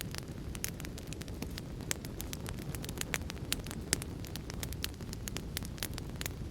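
Wood fire burning in a fireplace: a steady low rumble of the flames with many sharp, irregular crackles and pops, the loudest about four seconds in.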